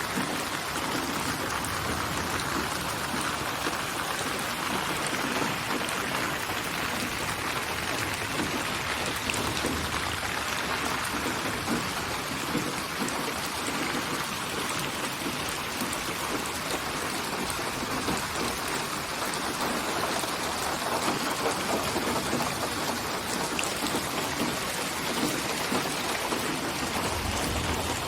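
Steady rain falling, an even, unbroken hiss of raindrops that holds the same level throughout.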